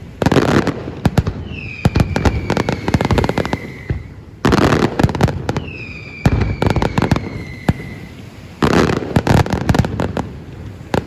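Aerial fireworks display: a run of loud shell bursts about every two seconds, thick with crackling. Two long whistles slowly fall in pitch, the first starting about a second and a half in and the second about six seconds in.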